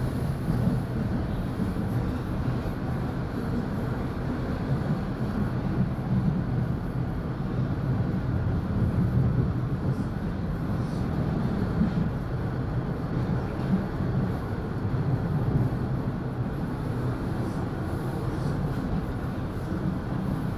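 Toronto Line 1 subway train running between stations, heard from inside the car: a steady low rumble with wheel-and-track hiss that rises and falls slightly in level.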